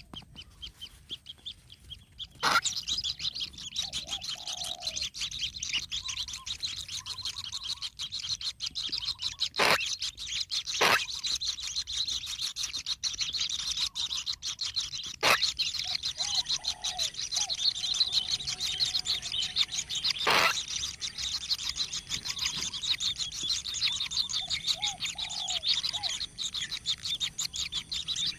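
Kingfisher nestlings calling: a dense, continuous run of rapid high-pitched chirps that starts about two seconds in, with a few sharp clicks among them.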